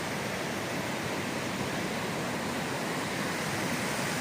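Steady rushing of a waterfall, an even, unbroken noise of falling water.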